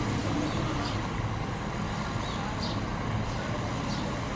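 Dump truck engine running steadily with a low, even hum.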